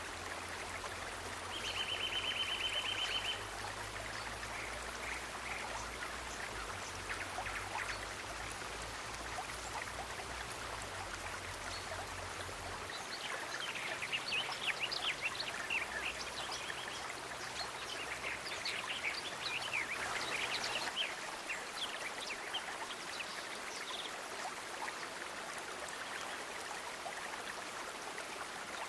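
Steady rush of a flowing stream with scattered bird chirps over it. A short rapid trill comes about two seconds in, and the chirping grows busier in the middle.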